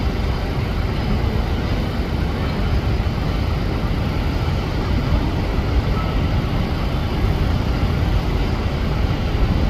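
Steady roar of jet aircraft engines with a strong low rumble, holding an even level throughout.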